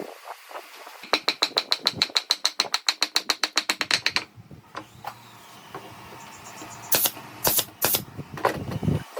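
A fast, even run of mechanical clicks, about nine a second, lasting about three seconds, then a few single sharp clicks near the end.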